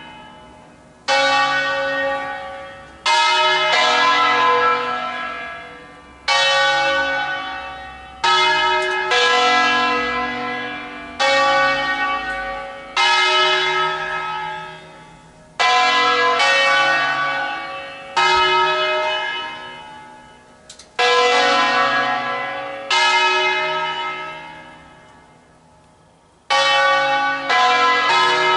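Bronze church bells cast by Angelo Ottolina in 1953, the three largest of a nine-bell B-major ring, sounding an office ringing (suonata d'ufficio). They strike in turn at uneven intervals of one to three seconds, and each deep note rings on and slowly fades under the next.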